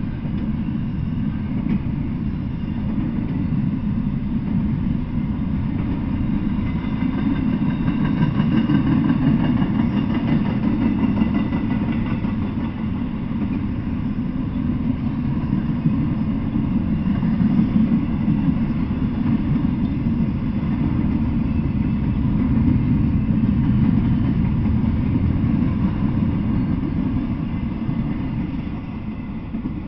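Double-stack intermodal freight train rolling past: a steady low rumble of steel wheels on rail that eases off near the end as the last well car goes by.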